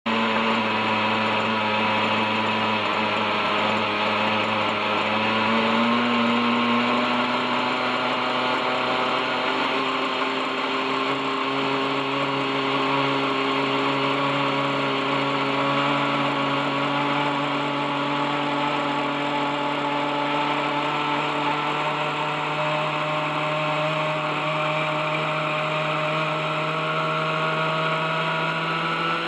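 OS 61SF two-stroke glow engine of an RC helicopter running steadily, its pitch climbing slowly through the stretch. The engine has been started after 30-odd years without maintenance, its bearings still rusty.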